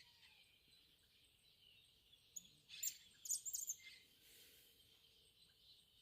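A bird gives a quick cluster of high, sharp chirps a little before halfway through, over a faint, steady, high-pitched rural background.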